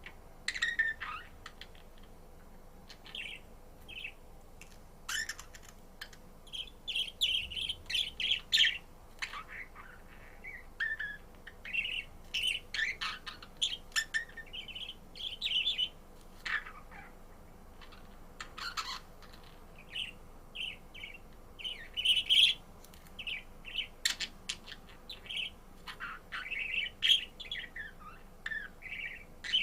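Budgerigar chirping and warbling: runs of quick, short chirps and twitters with brief pauses between them.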